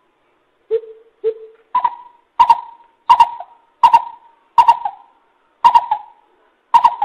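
Coucal calling a series of about nine short, deep hoots. The first two hoots are lower, then the call steps up in pitch and the hoots come at an even pace, spacing out a little toward the end.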